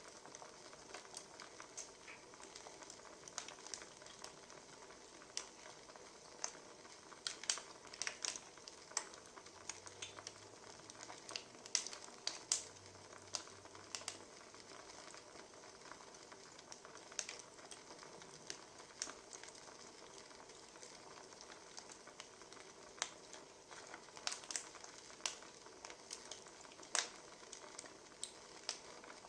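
Wood fire crackling: irregular sharp pops and snaps over a steady faint hiss.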